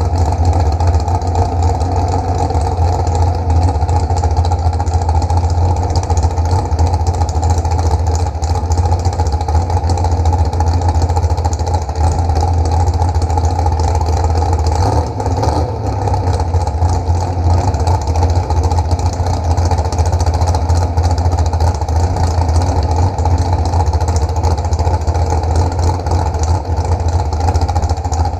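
An engine running steadily with a deep hum, holding an even pace, with a brief slight drop about halfway through.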